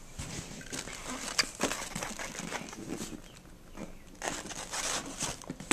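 Cardboard and paper packaging being handled: irregular rustling, scraping and light knocks as a gift box is opened.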